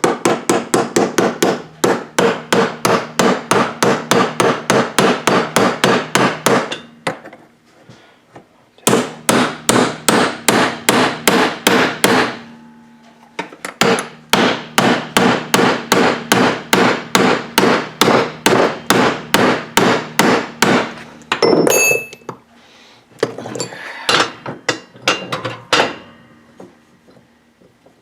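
Hammer driving new bushings into a VW front beam: rapid steady blows on metal, about four a second, in three long runs with short pauses. Near the end comes a brief metallic ring, then a few slower blows.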